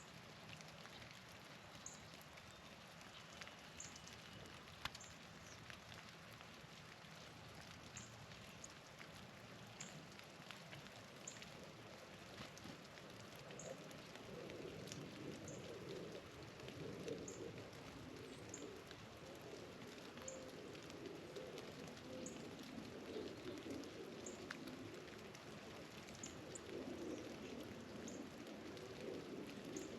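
Faint steady patter of wet precipitation on surfaces, growing louder about halfway through, with a short high chip note from a small bird repeating every second or two.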